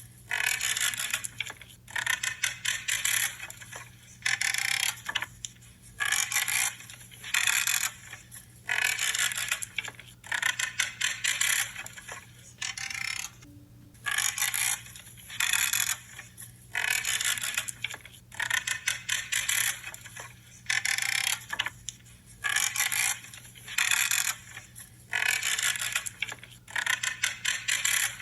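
Pruning shears cutting through branches: a crackling, creaking crunch with each cut, one after another about once a second, with a brief pause about halfway through.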